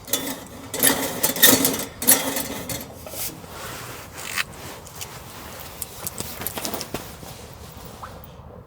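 Hands handling objects: irregular rustling, scraping and sharp clicks, busiest in the first three seconds and lighter after.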